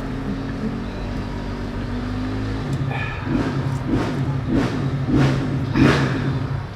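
A motor vehicle engine running steadily. About three seconds in it gives way to a series of short, evenly spaced surges, roughly one every half second or so.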